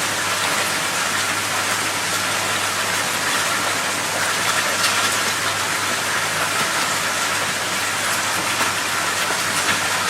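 Rushing water: a loud, steady, even hiss that cuts off suddenly at the end.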